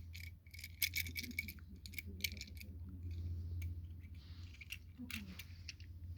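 Quick irregular clicks and light rattles of a small hard toy being handled, over a steady low hum.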